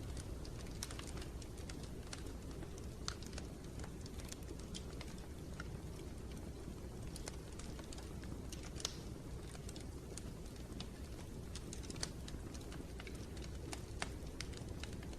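Wood fire crackling in a fireplace: irregular sharp pops and snaps over a steady low rumble of the flames, with a few louder pops about nine, twelve and fourteen seconds in.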